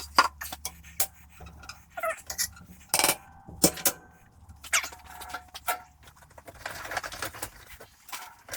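A run of irregular sharp knocks and clatters, the loudest about three seconds in, over a low steady hum that fades out about six seconds in.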